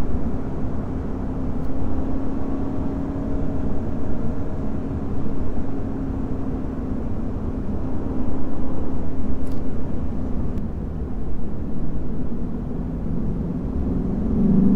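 Lexus IS500 F Sport Performance's naturally aspirated 5.0-litre V8 running at a steady cruise, its engine and exhaust drone holding an even pitch that sinks slightly. Near the end the pitch rises as the throttle is opened again.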